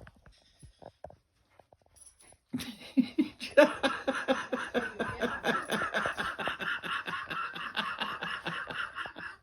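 A person laughing hard and uncontrollably in a long run of rapid, breathy bursts of about five a second, starting about two and a half seconds in.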